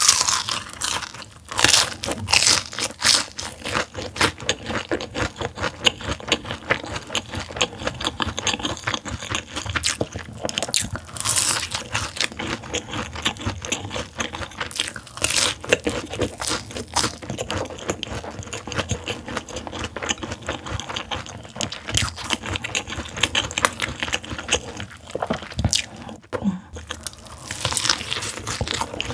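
Crispy soy-honey-glazed fried chicken being bitten and chewed: a steady stream of crunches, with a few louder bites.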